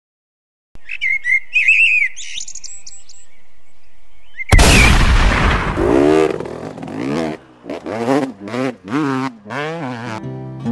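Quick high bird chirps for a few seconds. About halfway through comes a sudden loud boom, followed by a pitched sound that rises and falls again and again.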